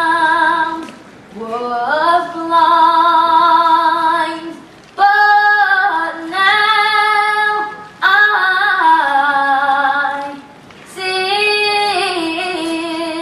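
A girl singing solo, unaccompanied, in about five long phrases of held notes with vibrato and short breaks for breath between them.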